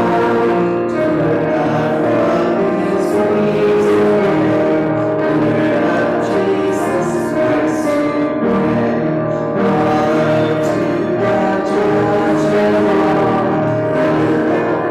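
Congregation singing a slow hymn with instrumental accompaniment, in long held notes.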